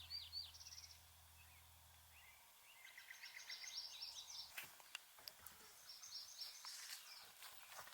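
Faint small birds chirping and twittering: a few quick down-slurred chirps at the start, then longer twittering phrases in the middle and again near the end. A low steady hum underneath stops about two and a half seconds in.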